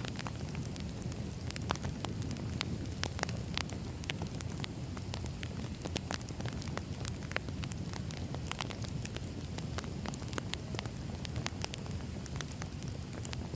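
Wood fire crackling: a steady low rumble of burning logs with many sharp pops and snaps at irregular intervals.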